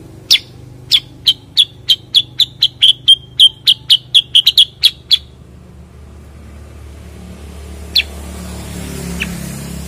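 Cucak kurincang singing: a run of short, sharp chirps that speeds up over about five seconds and then stops, followed by two single chirps near the end.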